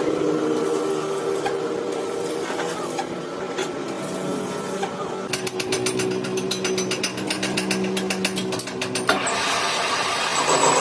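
Workshop tools at work: a steady machine hum, then about five seconds in a fast, even run of sharp taps lasting about four seconds.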